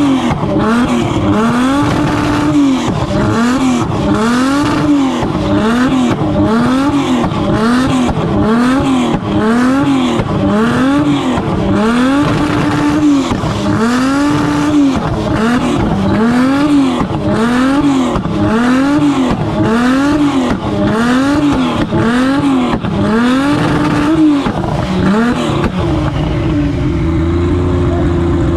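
Car engine revving up and falling back over and over, about once a second, over a steady rushing noise, then settling to a steady note near the end.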